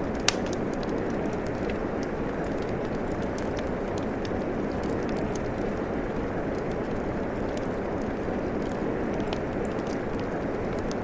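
Steady rain with a wood fire crackling over it: scattered small pops and one sharper pop near the start.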